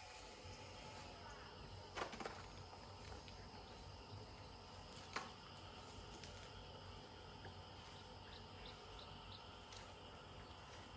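Quiet background with two short, sharp clicks or knocks, about two seconds in and again about five seconds in, and a short run of faint high chirps near the end.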